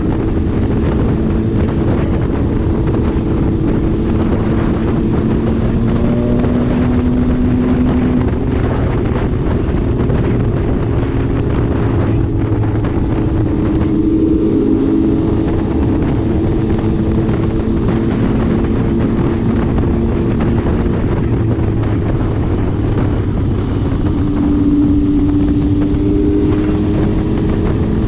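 MV Agusta Dragster RR's three-cylinder engine running while the bike cruises along the road, its note drifting slightly up and down with the throttle, under heavy wind noise on the microphone.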